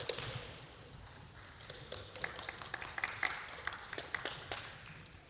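Sharp, hollow clicks of a table tennis ball striking bat and table, a few a second in a rally, over a quiet arena hush.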